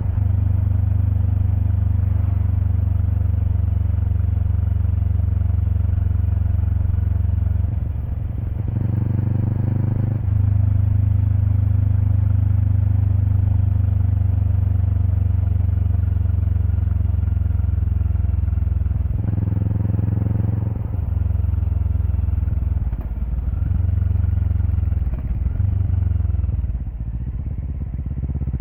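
Kawasaki Eliminator SE's parallel-twin engine running through a BEAMS header pipe and muffler, heard close to the exhaust while riding. The steady note breaks and changes twice, about eight and about nineteen seconds in, and rises and falls several times near the end.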